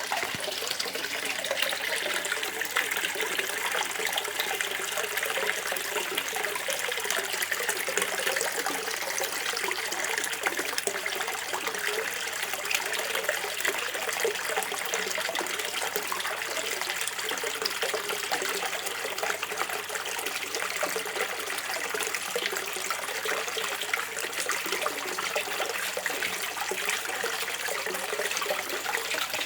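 River water gurgling and running steadily, a continuous splashing burble with many small bubbling ticks.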